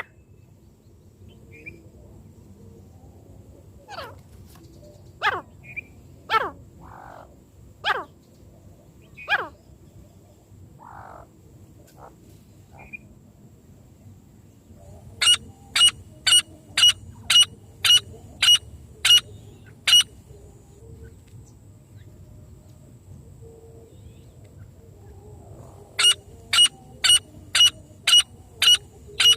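Francolin (teetar) calls. First come five downward-sweeping notes about a second and a half apart. Then there are two runs of sharp, evenly spaced calls, a bit over two a second: about a dozen in the middle and another run near the end.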